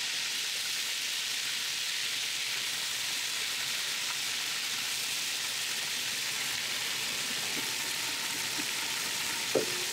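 Marinated chicken tikka pieces sizzling steadily in hot oil in a pan, with a single sharp knock near the end.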